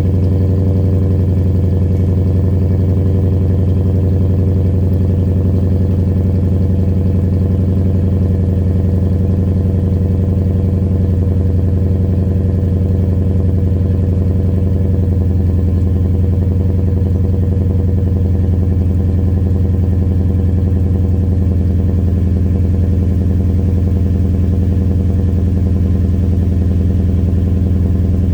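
2010 Toyota Tundra engine idling steadily through an MBRP aftermarket exhaust, a deep even drone with no revving.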